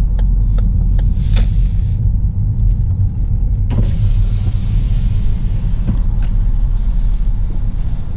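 Inside a Ford Focus, the car's steady low rumble, with a few light clicks in the first second. About four seconds in, a power window opens and a steady hiss of outside air and traffic noise comes in.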